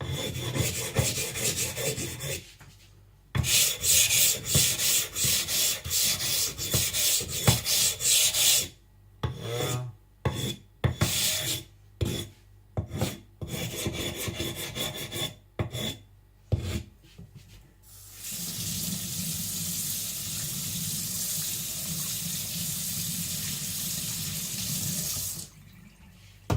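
Atoma 140 diamond plate rubbed back and forth over a Naniwa Professional 1000 water stone in quick strokes, lapping the stone flat, in several runs with short pauses. About eighteen seconds in the rubbing stops and a tap runs steadily for about seven seconds, rinsing off the slurry.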